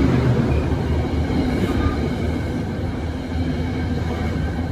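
Metro-North commuter train cars moving past the platform: a steady, loud noise of wheels running on the rails.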